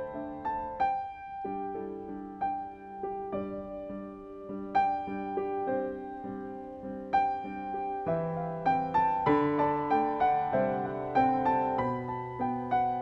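Background piano music: a slow, gentle melody over sustained chords, with notes coming more quickly in the second half.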